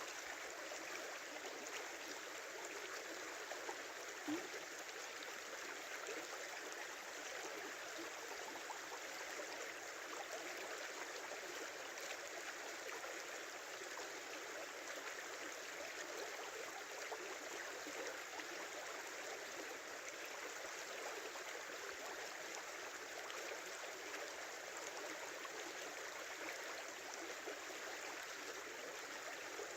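Small river flowing steadily over its bed, an even rushing babble of water. One short tick about four seconds in.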